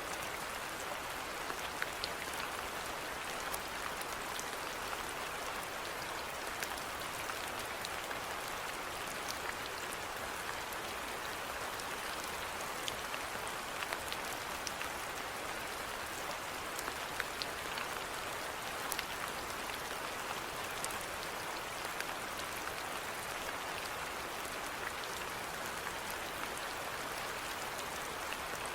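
Steady rainfall, an even hiss of rain with scattered individual drops ticking close by.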